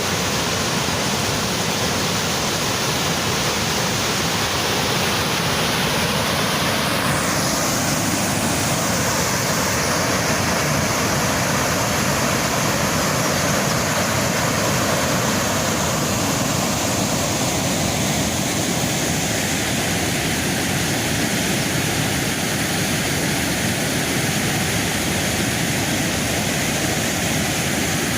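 Waterfall: a steady rush of falling water, its sound shifting slightly about seven seconds in.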